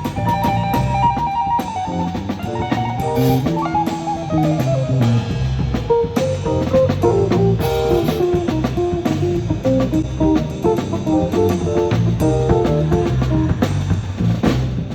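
Live band playing an instrumental passage: a guitar picks out a running melody of short notes over bass guitar and a drum kit keeping a steady beat.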